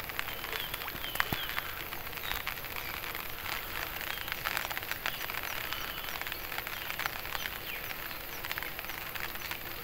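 Steady light rain pattering on water and the boat, a dense even hiss of small drop ticks. A few faint short high chirps sound about a second in.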